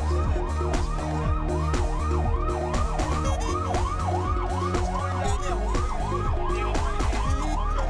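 Fire truck siren in a fast yelp, its pitch rising and falling about twice a second, over background music.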